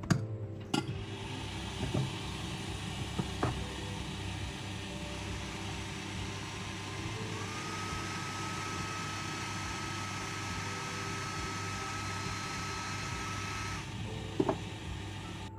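Steady hiss of a small air blower or fan, with a faint whine that steps up in pitch about halfway through and holds. The hiss stops suddenly near the end. A few sharp clicks and taps come at the start and again near the end.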